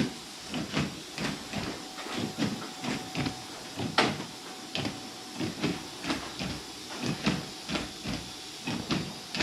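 Windshield wipers running across the glass after the wiper arms were refitted, making repeated short sweeping and knocking sounds several times a second over a steady hiss. A faint steady whine runs through the first few seconds. The run tests whether the arms clear each other and return to their rest position.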